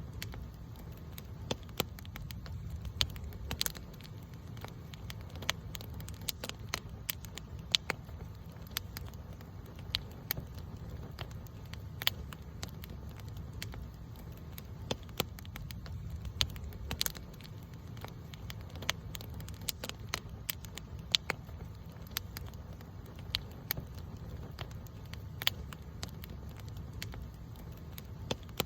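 Wood campfire crackling, with irregular sharp pops and snaps, several of them loud, over a steady low rumble.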